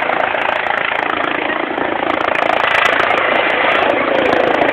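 Helicopter flying close overhead, its rotor and engine noise loud and steady, growing a little louder about halfway through.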